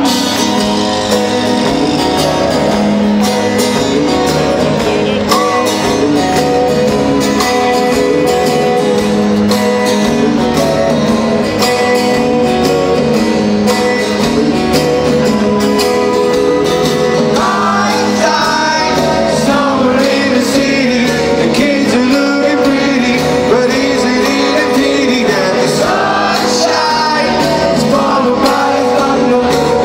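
Live rock band performing in an arena: guitars, bass and drums playing a steady song, with a sung vocal standing out from about two-thirds of the way in.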